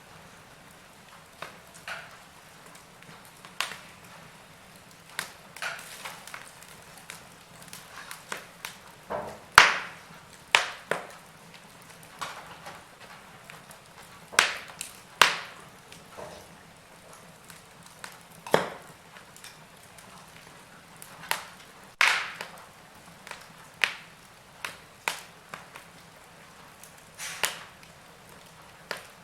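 Wood fire crackling in a fireplace: irregular sharp pops and snaps over a faint steady hiss, the loudest pops about ten, fifteen and twenty-two seconds in.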